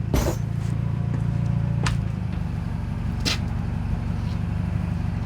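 A vehicle engine running steadily, with a few sharp clicks or knocks over it.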